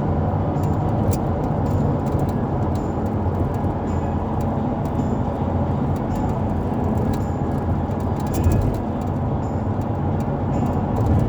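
Steady engine and road rumble inside a moving vehicle's cabin, with a few faint clicks.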